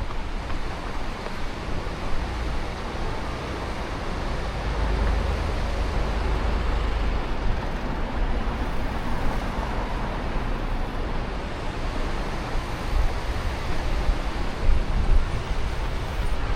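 Road traffic noise: a steady hiss with a low rumble, with no single vehicle standing out.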